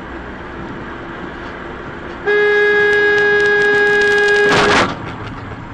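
A car horn sounds one long, steady single-tone blast of about two and a half seconds over the running car's road noise. It ends in a short harsh burst of noise.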